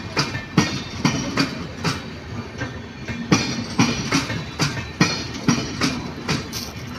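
Express train's passenger coaches rolling past, their steel wheels clattering over rail joints in a steady run of knocks, about two or three a second, with a short quieter stretch midway.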